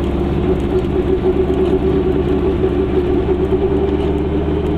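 Goggomobil's air-cooled two-stroke twin engine running steadily as the small car drives along, with a low rumble underneath.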